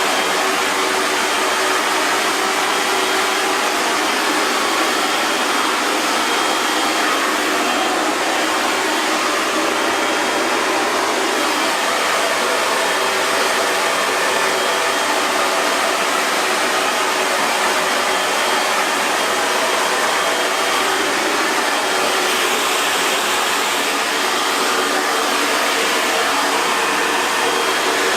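Hair dryer running steadily: an even rush of blown air over a faint hum of its motor, with no change in speed.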